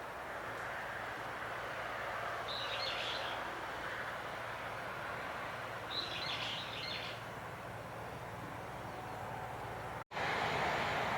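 Eastern crowned warbler singing two short high song phrases a few seconds apart, over a steady background hiss.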